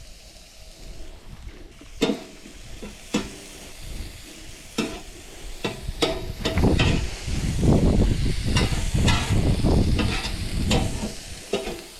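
Food sizzling in a frying pan while a spatula stirs it. It knocks and scrapes against the pan in a few separate clacks at first, then in a busy run of scraping from about halfway through.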